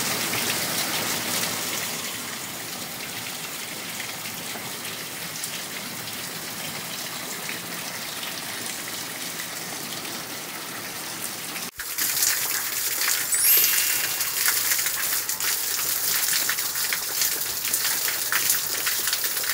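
Heavy rain falling in a steady hiss. About twelve seconds in it changes to a louder, crisper rain with many separate drop splashes.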